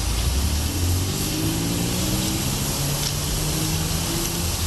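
An engine running, with its pitch drifting slowly up and down over a steady background rumble.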